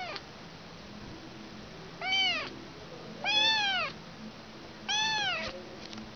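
Orphaned kitten, separated from its mother, meowing three times about a second apart. The calls are high-pitched, each rising and then falling in pitch, and the middle one is the longest. The end of an earlier meow is heard just at the start.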